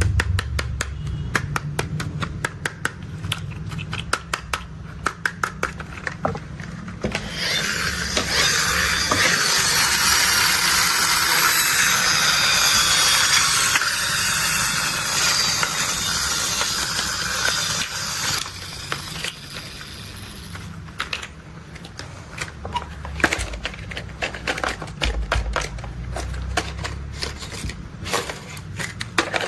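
Dense, rapid plastic clicking and rattling from toy construction vehicles being handled, over a low steady rumble. From about seven seconds in, a louder rustling hiss runs for about ten seconds.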